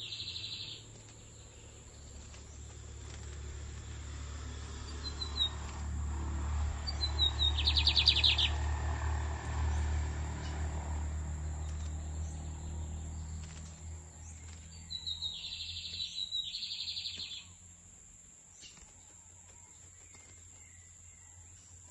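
Lined seedeater (bigodinho) singing short, rapid trilled phrases several seconds apart, with a pair of phrases near the end. A low rumble swells and fades under the middle of the song, and a thin steady high whine runs beneath.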